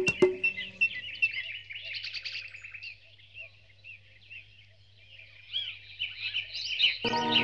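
Birds chirping in many short, overlapping calls, with a few sharp clicks at the start. Music comes in near the end.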